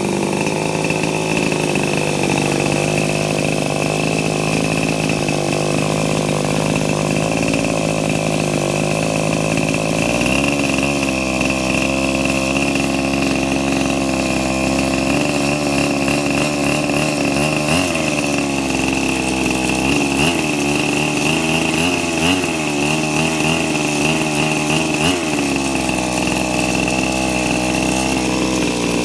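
Small model engine of a Kalt Baron RC helicopter running on test, a steady buzzing note with a constant high whine. About ten seconds in it steps up to a faster speed, then is briefly blipped higher and back down four times near the end.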